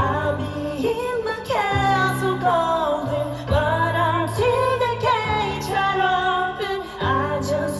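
Live pop band playing with a female lead singer; her melody bends and wavers over steady bass notes that change about once a second.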